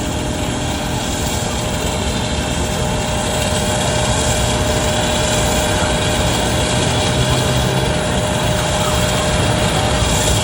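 Jet engines of a widebody cargo airliner at takeoff power: a steady rumble with a thin steady whine, slowly growing louder.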